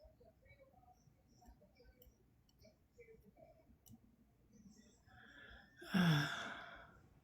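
A single loud, voiced sigh with falling pitch about six seconds in, after a few seconds of faint small clicks.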